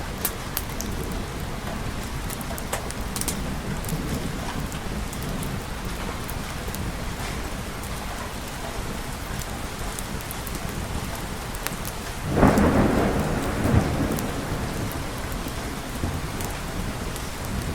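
Steady rain falling, with a thunderclap about twelve seconds in that rumbles on and fades over a couple of seconds.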